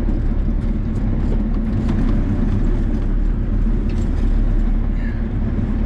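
Diesel engine of a farm machine running steadily at a constant speed, a low even drone with no revving.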